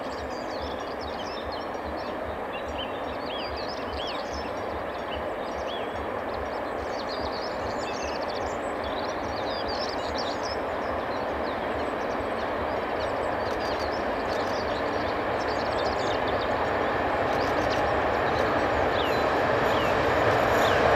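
An approaching train, its noise growing steadily louder, with many short high chirps over it.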